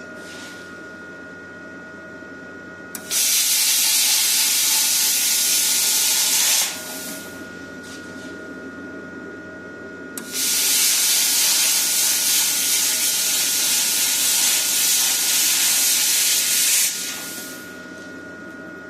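Handheld plasma cutter cutting sheet steel in two long bursts, each a loud, steady hiss that starts with a click and trails off into a softer hiss of air, over a constant machine whine.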